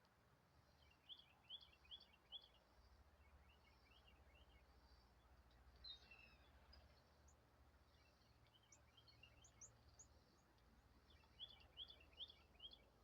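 Faint songbird chirping: three quick runs of about four high chirps each, with a few thin, higher notes between them, over a faint low rumble.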